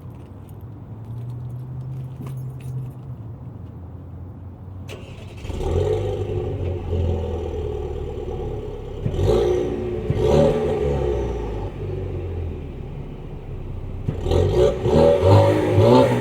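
2016 Camaro 2.0-litre turbocharged four-cylinder running through a catless exhaust. It gets much louder from about five seconds in, then revs up and back down a few times, around ten seconds and again near the end.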